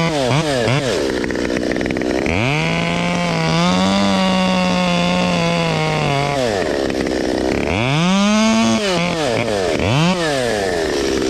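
Chainsaw revved in quick blips, then held at full throttle for about four seconds while cutting, its pitch sagging slightly. Two more revs follow before it drops back to idle.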